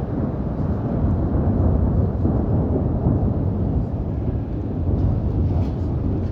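Thunderstorm: a continuous low rumble of thunder mixed with wind on the microphone, over heavy rain, swelling slightly a second or two in.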